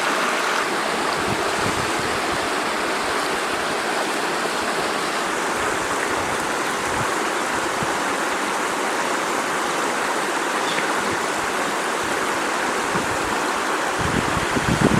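River water flowing and rushing steadily. A few low thumps sound near the end.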